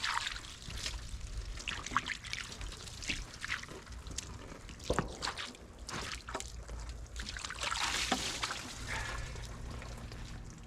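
Water trickling and dripping from the bucket that feeds water to the sawmill blade, with scattered small clicks and knocks over a steady low hum.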